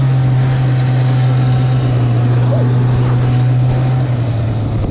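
Snowmobile engine running at a steady, constant speed, a loud even drone that grows slightly rougher about four seconds in.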